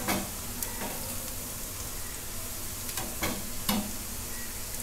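Soya chunks (meal maker) frying in hot oil with a steady sizzle. A spatula stirs them and knocks against the pan a few times, mostly around three to four seconds in.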